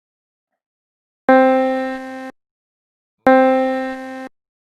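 A pitched demonstration tone, played twice, each note about a second long, starting sharply, fading, then cut off abruptly. It is the third of a series of sample pitches going from low to high.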